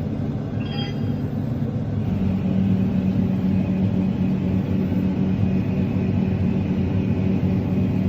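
Vehicle engine running steadily with a low hum, growing a little louder about two seconds in.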